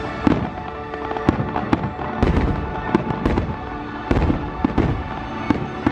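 Aerial fireworks shells bursting in a rapid series of sharp bangs, scattered through the whole stretch, over music playing.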